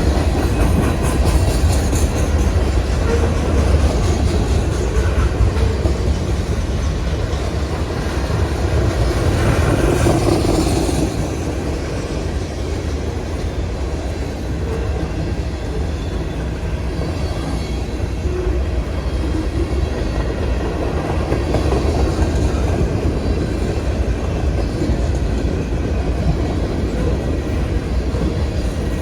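Freight train cars rolling past with a steady, loud rumble, a little louder in the first ten seconds or so.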